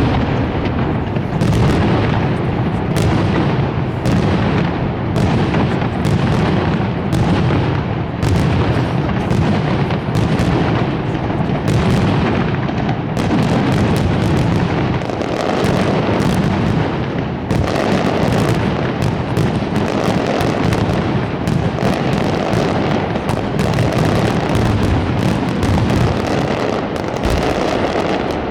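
Fireworks display in a dense, continuous barrage: many bangs and cracks a second, overlapping without a pause.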